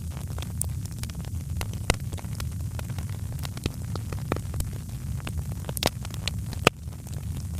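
Wood fire crackling: irregular snaps and pops over a steady low rumble, with one sharper pop near the end.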